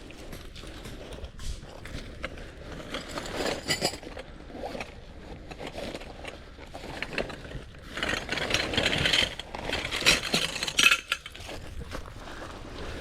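Light metal camping gear handled: pieces clinking together and scraping, in irregular bursts, busiest about a third of the way in and again past the middle.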